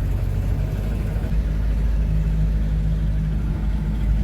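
Car engine running with a steady low rumble as the car is driven with the gears of its seized differential removed.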